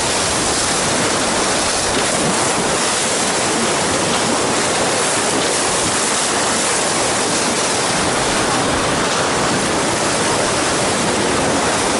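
Colorado River whitewater rushing steadily through Crystal Rapid.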